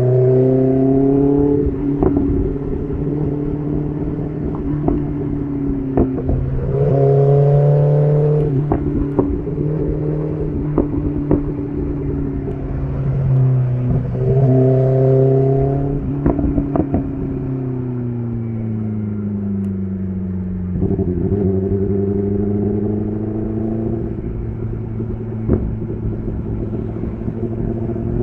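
BMW S1000RR inline-four engine through an SC Project CR-T titanium exhaust, under way on a winding road. The engine note rises and falls in about four throttle surges, and scattered sharp clicks come through it.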